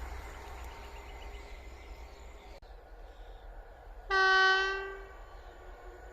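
A railway locomotive horn sounds one short single-tone blast, just under a second long, about four seconds in. Before it, the noise of a passing train fades and breaks off abruptly.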